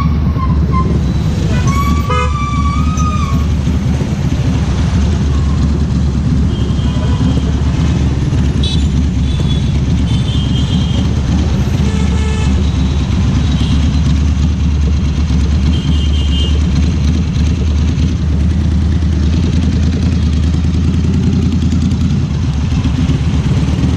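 Ducati Scrambler Cafe Racer's air-cooled 803 cc L-twin running steadily under way in city traffic, a constant low rumble. Other vehicles' horns honk over it, a louder one about two seconds in, then fainter toots through the middle.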